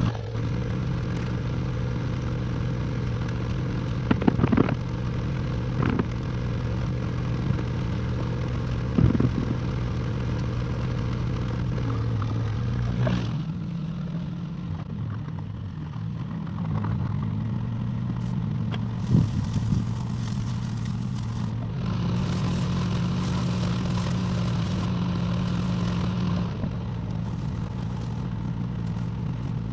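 Excavator diesel engine running steadily, with a handful of sharp metallic clanks from the bucket and arm working rock and earth. The engine note dips a little about halfway through, and a higher tone joins it for a few seconds later on.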